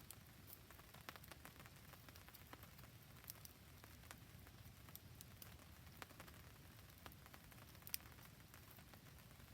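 Faint campfire crackling with rain falling: a steady soft hiss of rain under scattered small pops and ticks, the sharpest pop about eight seconds in.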